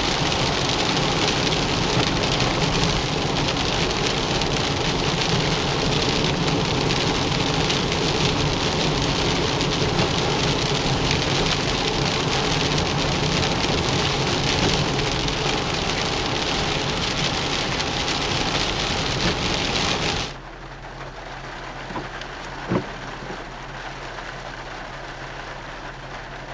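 Heavy rain pouring down steadily. About twenty seconds in it drops abruptly to a much quieter, lighter rain sound, with a couple of faint clicks.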